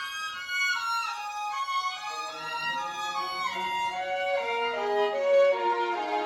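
A violin playing a quick classical melody of short notes, the line stepping downward in pitch over the second half.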